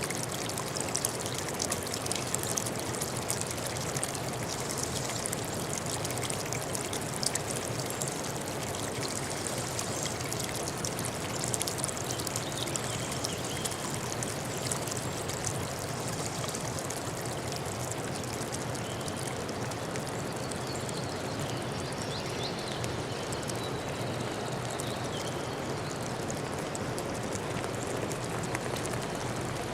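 Water flowing steadily, a constant even rush with fine splashing detail and no pause.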